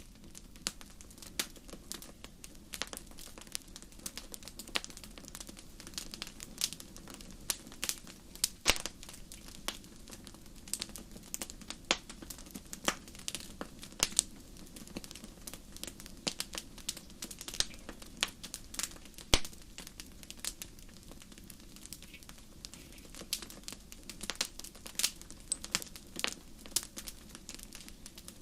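Wood fire crackling in a fireplace: irregular sharp pops and snaps, several a second, over a low, steady hiss of burning.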